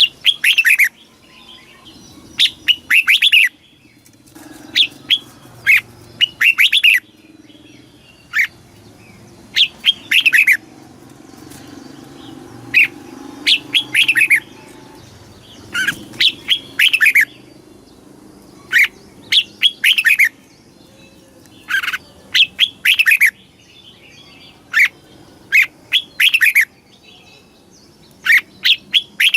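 Red-whiskered bulbul singing: short, quick phrases of clear whistled notes, one every second or two, over a faint low background hum.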